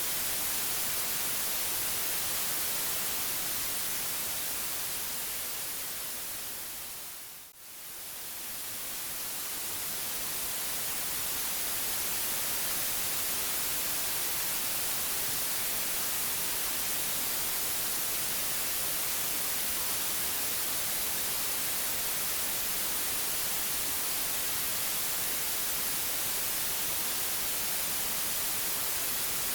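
Steady synthetic white noise, an even hiss. About seven seconds in it fades down briefly, nearly to silence, then swells back up to full level over a few seconds.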